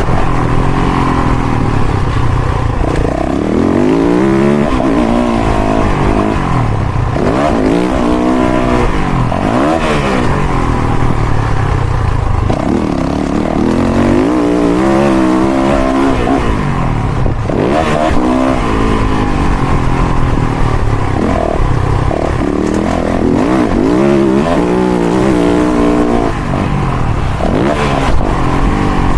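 Motocross dirt bike engine revving hard and backing off over and over, its pitch climbing and dropping every second or two as the throttle is worked around the track.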